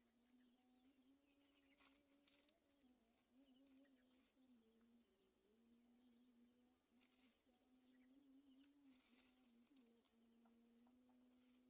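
Near silence: faint outdoor background with a low, wavering hum and a few faint high ticks.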